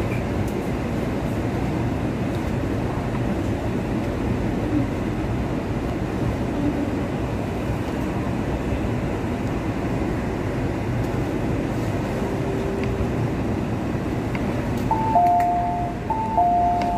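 Kinki Sharyo–Kawasaki SP1900 electric multiple unit running into a station and slowing to a stop: a steady rumble of running noise heard from inside the car. Near the end a two-note falling chime sounds twice.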